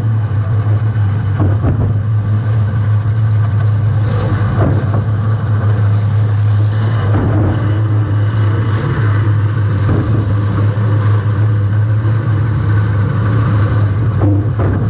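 Demolition-derby compact car's engine running hard under load, a steady low drone picked up close by a camera mounted at the rear of the car, with a few short knocks scattered through.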